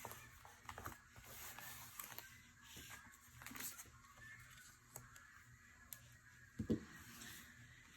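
Faint chattering and calling of birds waking at their roost on a pond island, heard through an open patio door. A soft knock sounds about two-thirds of the way through.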